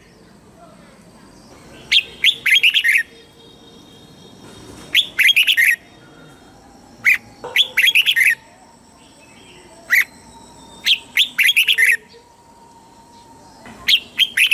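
Red-whiskered bulbul singing: short phrases of quick, bright, chattering notes, each about a second long, repeated every few seconds, five times.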